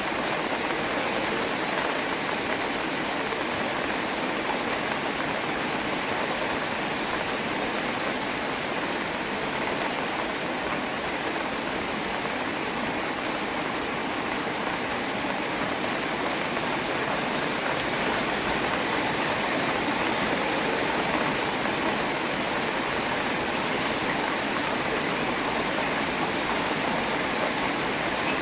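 Steady rain falling, an even hiss of many drops with no breaks or single events.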